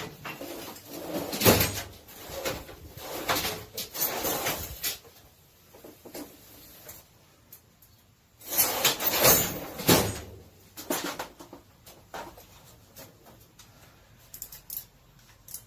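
Wrenches and metal engine parts being handled: irregular clanks, knocks and scraping in several bursts while intake manifold bolts are worked loose, with a louder stretch about halfway through.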